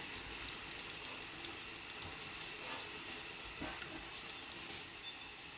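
Electric commuter train running, heard from inside the car: a steady running noise with scattered light clicks and ticks.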